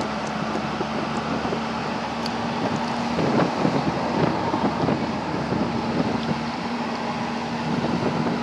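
Pickup truck driving on a back road, heard from its open bed: steady road and engine noise with a low hum, and wind rushing over the microphone.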